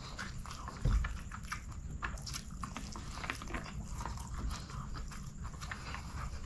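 Close-up wet chewing and lip-smacking of a mouthful of chicken biryani, with fingers picking at a chicken piece on a banana leaf: many small crackly clicks throughout. One louder low thump about a second in.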